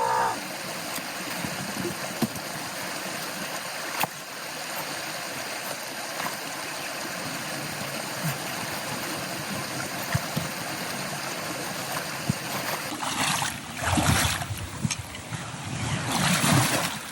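Steady rush of flowing creek water, with faint clicks and knocks scattered through it. Near the end come two louder stretches of splashing and sloshing.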